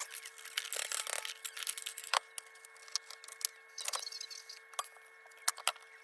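Irregular clicks, knocks and scraping rustles of kerosene-heater parts being handled and worked loose by hand, with a faint steady hum under them.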